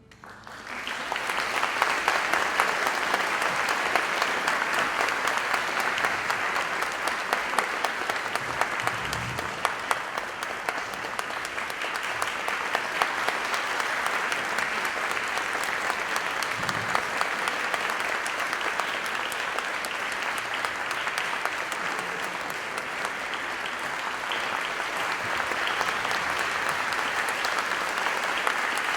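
Audience applauding steadily after an orchestral piece ends, starting about half a second in.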